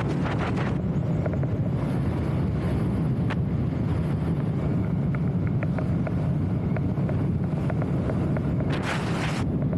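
Wind buffeting the microphone as a steady, heavy low rumble, with a brief louder hiss near the end.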